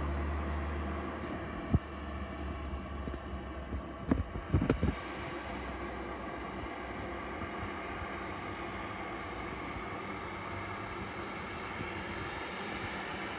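Jet aircraft engine noise at an airport runway: a low rumble that fades over the first couple of seconds, then a steady whooshing noise. A sharp knock comes near two seconds in, and a quick cluster of knocks about four seconds in.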